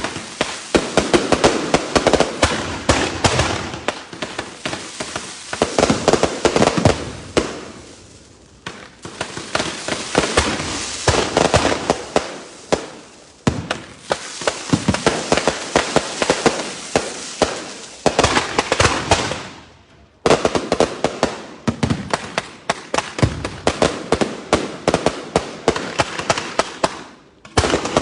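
Cart-mounted fireworks going off at close range: rapid barrages of bangs and crackling that swell and fade in waves every few seconds, with brief lulls about a third of the way in, around two-thirds through, and just before the end.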